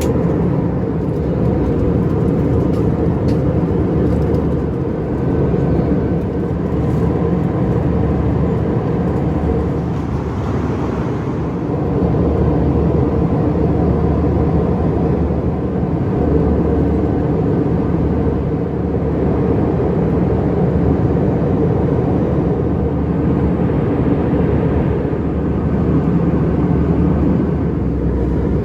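Steady cabin noise of an Airbus A319 airliner in flight: a dense low rush of airflow and engine drone, with a faint steady whine above it.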